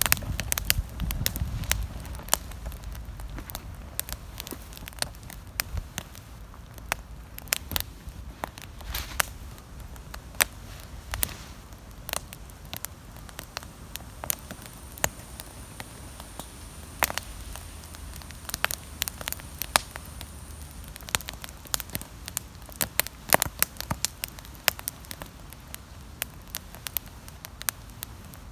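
Wood campfire crackling, with irregular sharp pops and snaps over a soft low hiss of the burning.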